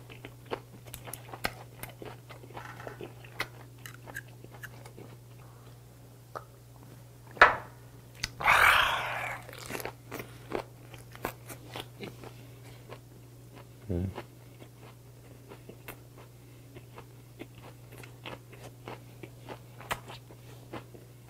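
Close-miked chewing of a mouthful of ssam, a leaf wrap with grilled beef, shiitake mushroom and chili pepper: wet crunches and mouth clicks. A sharp louder crunch comes about seven seconds in, followed by a longer noisy burst, and there is a low thud around fourteen seconds in.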